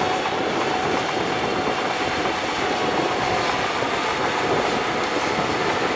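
Shantui crawler bulldozer working, its diesel engine running under the steady clatter of its steel tracks, with a faint high squeal from the track running gear.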